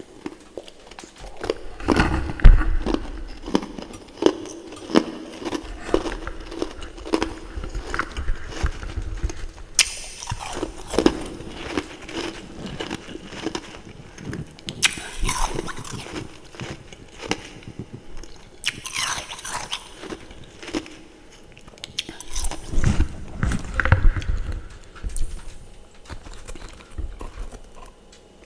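Close-up crunching and chewing of freezer frost and frost chunks: repeated sharp bites and crackly crunches in clusters, with short pauses between mouthfuls.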